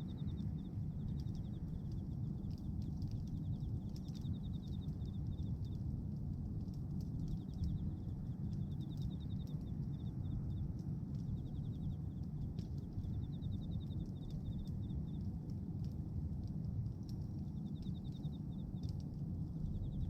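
Bonfire of pruned tree branches burning, with scattered sharp crackles and pops over a steady low rumble. A high, fast-pulsed trill repeats in short runs of one to two seconds throughout.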